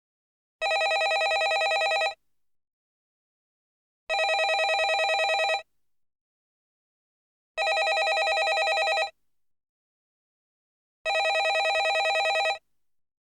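Landline telephone bell ringing: four rings of about a second and a half each, with about two seconds of silence between them, each ring a rapid trill of the bell.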